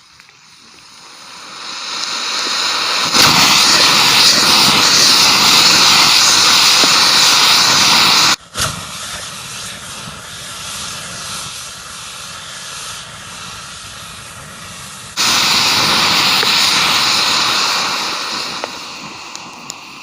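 An amateur rocket motor firing on a test stand: a loud, steady rushing hiss that builds over about three seconds. It drops sharply to a quieter, thinner hiss about eight seconds in, comes back loud about fifteen seconds in, then tails off near the end.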